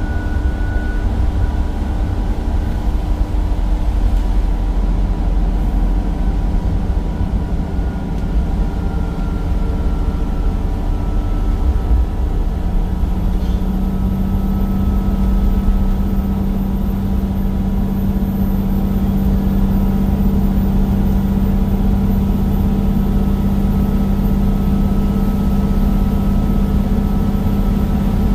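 Temsa Avenue bus's Cummins diesel engine running with a steady hum. About halfway through, a strong low steady note comes in and holds.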